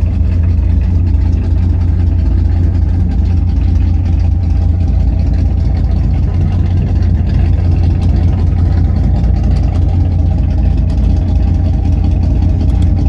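1973 Pontiac Trans Am race car's engine idling steadily with a deep, loud exhaust.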